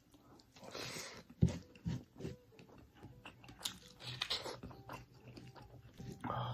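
Close-miked eating: crunchy bites and chewing, with irregular sharp crunches, the loudest about a second and a half in.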